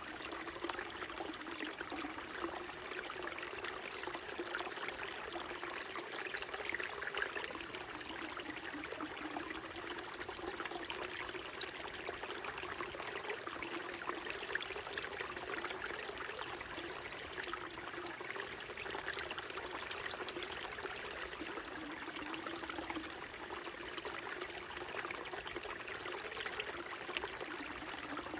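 Small mountain stream flowing steadily over rocks, a continuous babbling and trickling of water with fine splashes.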